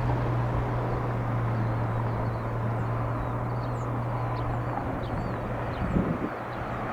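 Jet airliner engines running: a steady rush with a low hum that fades about five seconds in. Small birds chirp faintly over it.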